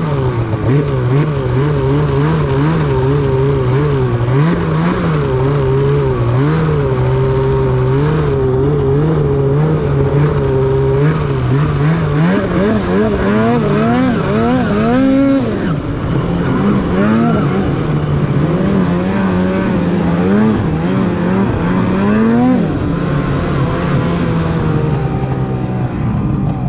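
Polaris Patriot Boost snowmobile's turbocharged two-stroke engine, fitted with a BoonDocker Sidekick stock-exit muffler, idling and blipped with quick throttle revs. It revs higher and falls back about halfway through and again near the end.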